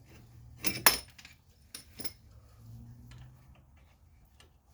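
Small metal sockets and hand tools clinking as they are handled: a few sharp clinks, the loudest about a second in, and lighter ones about two seconds in.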